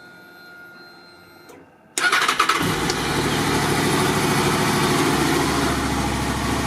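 Honda VFR800 VTEC's V4 engine starting from cold: a faint steady whine, then about two seconds in the starter cranks briefly and the engine catches, settling into a steady idle.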